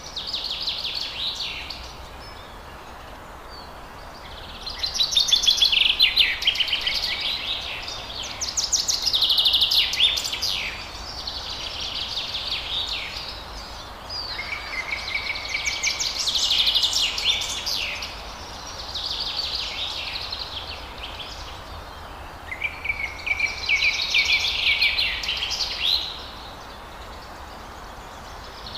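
Forest birds singing in a run of chirping, warbling phrases, each about two to four seconds long with short pauses between, over a steady background hiss.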